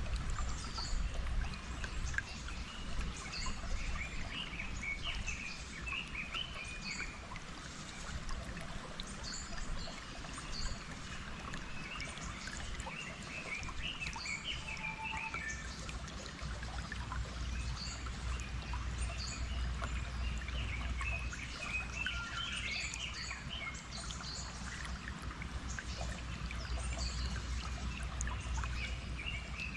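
Running stream water with birds singing and chirping throughout.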